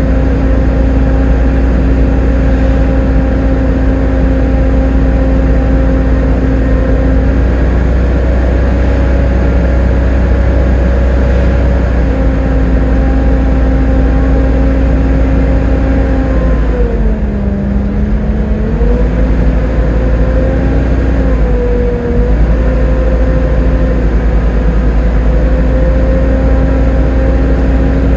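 Volvo B7TL bus's 7-litre six-cylinder driveline running under way, with its characteristic vacuum-cleaner-like whine over a deep rumble. About two thirds of the way through, the whine's pitch drops and then climbs back as the bus eases off and picks up again, then it holds steady.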